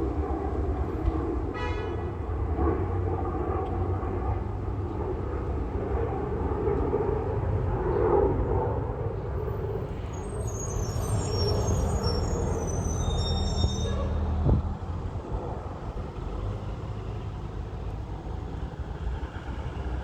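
Boeing 737-800 on final approach: a steady low rumble of jet engines and rushing air. High chirping tones come in briefly in the second half, and a single sharp thump sounds about 14 seconds in, after which the rumble is a little quieter.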